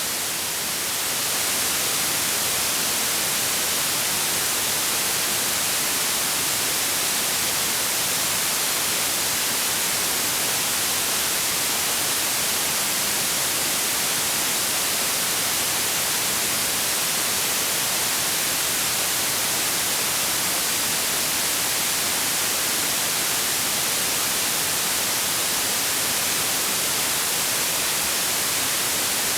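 Synthetic white noise: a steady, even hiss, brightest in the high frequencies, with no breaks or changes.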